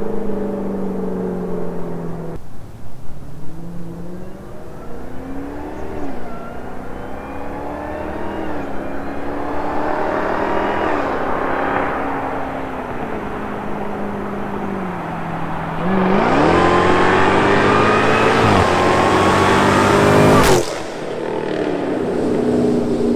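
Jeep Trackhawk's supercharged 6.2-litre V8, breathing through a Corsa Extreme exhaust, accelerating. The engine pitch climbs and falls back at each upshift several times, then eases off. About sixteen seconds in, a louder hard pull climbs for about four seconds and cuts off suddenly with a sharp crack, settling to a lower steady drone.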